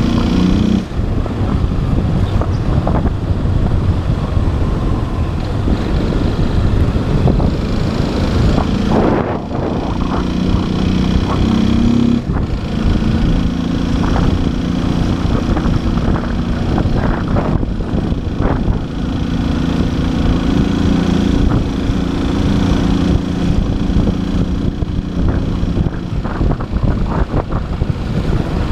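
Motorcycle engine running while riding through city streets, its pitch climbing and dropping a few times as the rider shifts gears, about 9 and 12 seconds in and again later. Wind noise on the microphone runs underneath.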